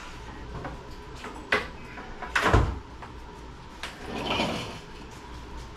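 A few sharp knocks and a heavier thump about two and a half seconds in, like parts or tools being handled and set down.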